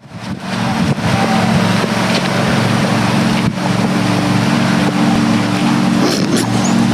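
A motor running steadily, with a rushing noise of wind or water over it.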